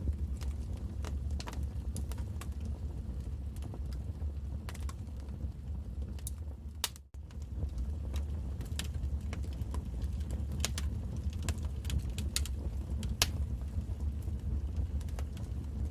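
Wood fire burning in a fireplace: a steady low rumble of the flames with irregular sharp crackles and pops. The sound briefly cuts out about seven seconds in.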